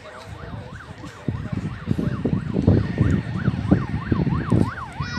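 Police vehicle siren wailing in a fast yelp, its pitch sweeping up and down about two and a half times a second. A heavy low rumble comes in about a second in and is louder than the siren.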